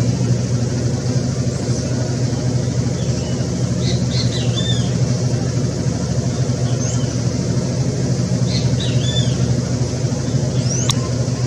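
A steady low engine-like drone, with short high squeaky chirps in two clusters, about four and nine seconds in, and a sharp click near the end.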